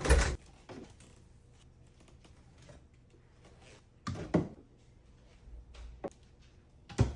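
Kitchen handling sounds: three sharp knocks, one at the start, one about four seconds in and one near the end, with faint clicks between, as things are moved and set down.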